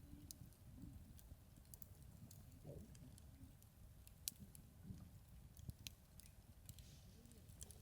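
Wood campfire crackling faintly: scattered sharp snaps and pops, with one louder pop a little over four seconds in.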